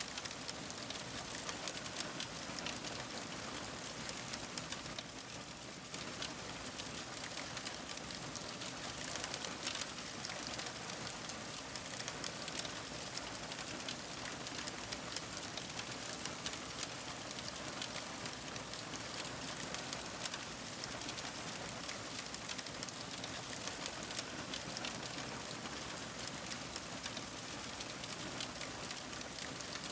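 Wood fire crackling steadily: many small, sharp pops and snaps over a soft, even hiss.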